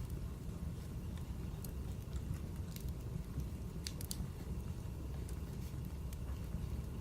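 Wood fire burning: a steady low rumble with scattered sharp crackles and pops, a few close together about four seconds in.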